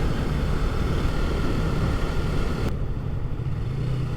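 Yamaha MT-03's parallel-twin engine running at steady speed with wind rushing past; about two-thirds through, the wind hiss drops away suddenly and the engine note settles slightly lower.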